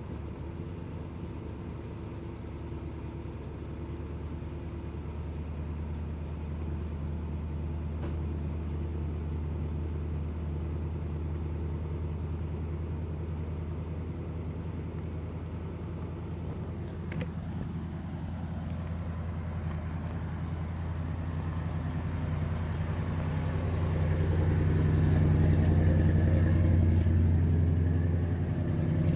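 1986 Chevy K30's 454 big-block V8 running steadily at idle on a cold start after sitting for two weeks. It gets louder about two-thirds of the way through and stays there until a short dip near the end.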